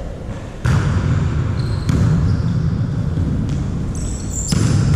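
A volleyball being struck during a rally, three sharp hits echoing in a sports hall, with brief high squeaks between them.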